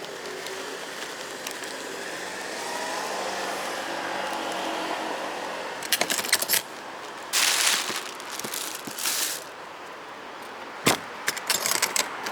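Steady vehicle and road noise, then, from about halfway, a run of sharp clicks and short rustling bursts of something being handled.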